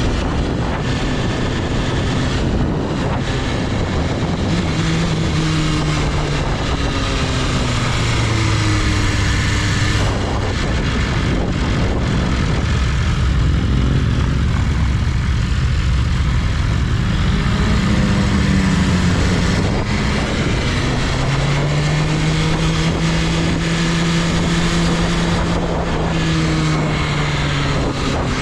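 BMW S1000RR's liquid-cooled 999 cc inline-four engine running under way, its note rising and falling in slow sweeps over a steady rush of wind and road noise.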